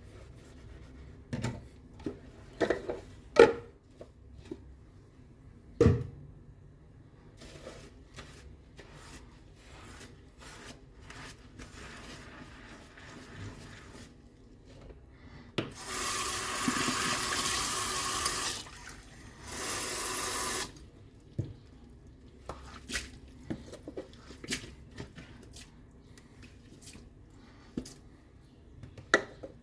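Dishes being washed at a sink: scattered clinks and knocks of dishware, the loudest in the first few seconds, then the tap run twice in the middle, for about three seconds and then about a second, followed by more light clinks.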